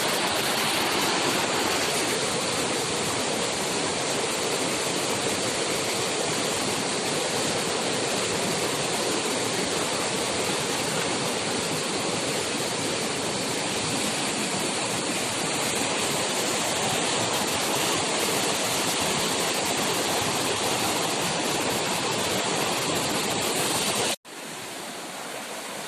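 Steady rushing water, like a stream or small waterfall close by. It cuts off abruptly near the end and gives way to quieter background ambience.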